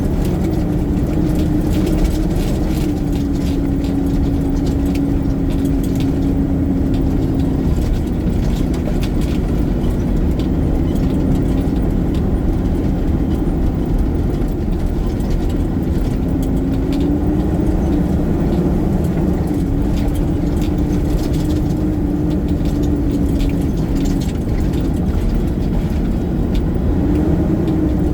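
Garbage truck's engine running steadily with road or mechanical rumble underneath. Its pitch steps down twice and later climbs back up twice as engine speed changes, with light rattles here and there.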